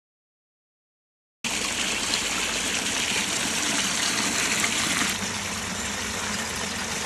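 Water running steadily over the rocks of a pondless waterfall, starting abruptly about a second and a half in after a silent gap and easing slightly near the end.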